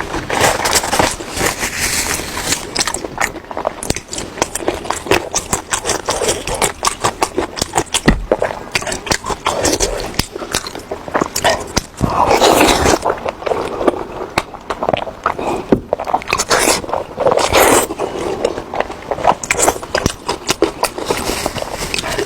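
Close-miked chewing and biting of pork knuckle skin: wet smacking and sticky clicks of the mouth in quick, uneven succession.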